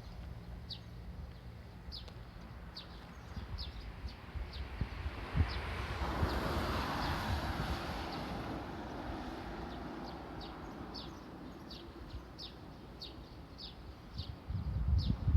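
A small bird giving short, high chirps over and over, roughly one or two a second, in an open-air background. Around the middle, a broad rushing sound swells for a few seconds and fades away.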